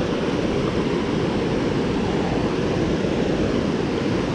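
Steady rush of river water running over a small falls.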